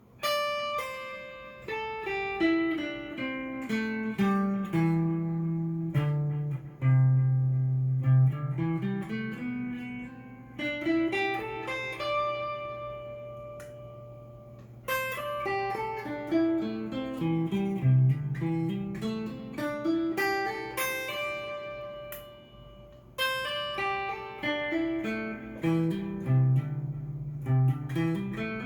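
Cort S series electric guitar played straight into a Fender amp: quick runs of single plucked notes sweeping down to the low strings and back up, again and again, starting about a third of a second in.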